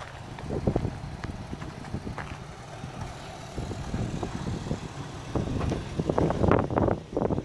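Lifted Toyota Tacoma pickup's engine running at low speed while crawling over rough ground, with scattered clicks and knocks. Wind starts buffeting the microphone about two seconds before the end.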